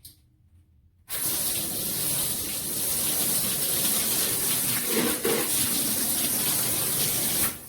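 Water spraying hard from a shower head, a loud steady hiss that starts suddenly about a second in and cuts off just before the end.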